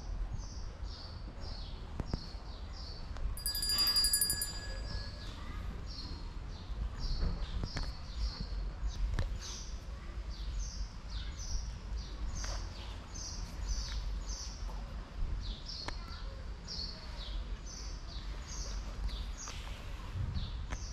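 A small bird chirping over and over, a quick falling high chirp two or three times a second, over a low steady rumble. About three seconds in, a loud, steady high whistle-like tone sounds for about a second.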